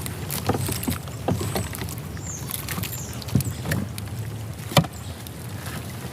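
Scattered clicks and knocks of fishing gear and a freshly landed flounder being handled against a plastic kayak's hull, over a steady low hum. The sharpest knock comes near the end.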